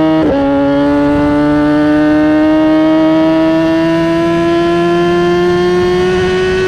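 Kawasaki Ninja ZX-10R's inline-four engine and exhaust under load: a quick drop in pitch a fraction of a second in as it shifts up a gear, then the revs climb slowly and steadily as the bike keeps accelerating.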